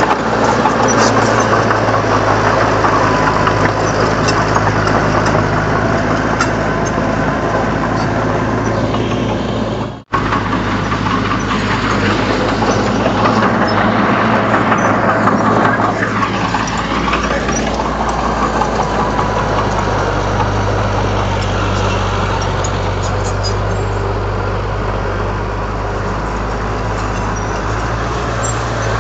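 Diesel engine of a Komatsu D31 bulldozer running steadily under mechanical clatter. The sound drops out for an instant about ten seconds in, and the engine's pitch dips and climbs back a little past the middle.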